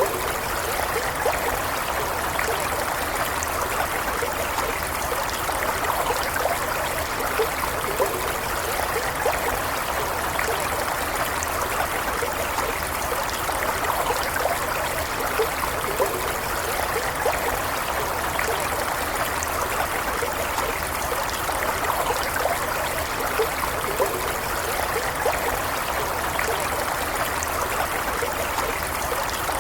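Stream water flowing and trickling steadily, with small gurgles.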